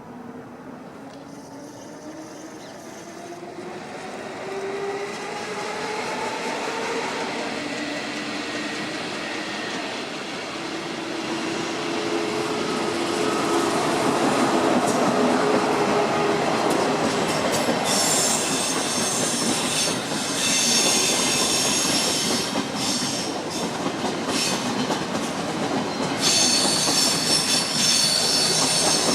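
Electric train running through a station, a whine rising in pitch over the first several seconds. Rail noise builds to loud, with high-pitched wheel squeal from about two-thirds of the way in and again near the end.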